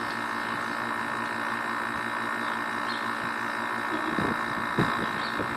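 Air conditioner compressor running with a loud, steady hum while its condenser fan is stopped. The condenser coil is overheating and the pressure is climbing toward the point where the compressor trips out. A few light knocks come near the end.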